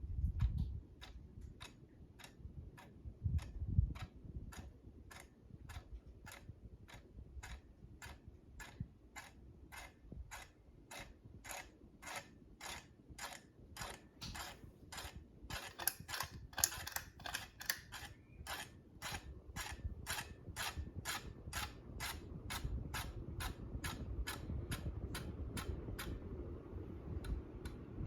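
Hampton Bay Carriage House II ceiling fan running with a regular clicking, about two clicks a second, which stops near the end, over a low rumble.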